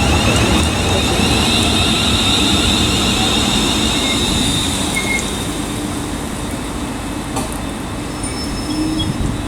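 Electric train at a station platform, running with a steady loud rumble and a high warbling whine that eases a little in the second half.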